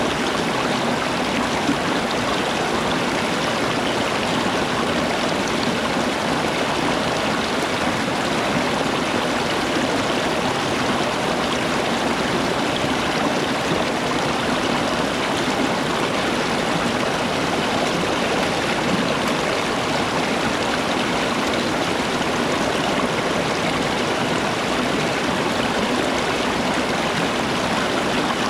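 Running water rushing steadily, an even, unbroken noise with no changes.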